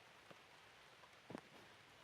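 Near silence: a faint steady hiss with a few soft clicks, the clearest about a second and a half in.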